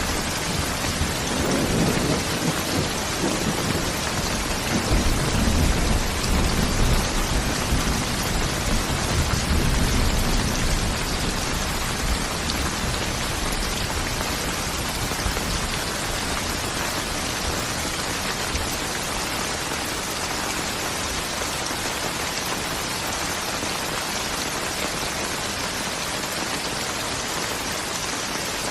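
Steady rain with thunder rumbling low in roughly the first ten seconds, then rain alone.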